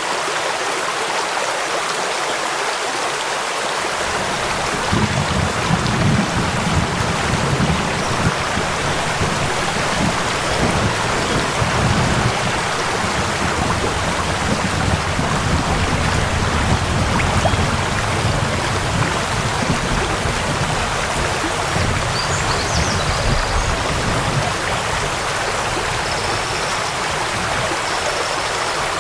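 Waterfall and rain: a steady rush of falling water, with a low rumble that comes in about four seconds in and fades near the end.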